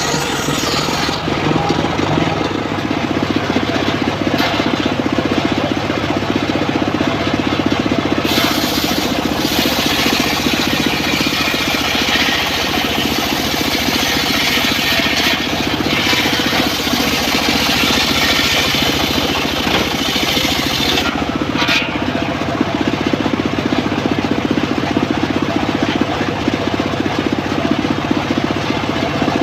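Engine-driven, home-built circular sawmill running steadily while ripping teak. A harsher cutting hiss joins about eight seconds in, breaks off briefly around twenty-one seconds, then comes back.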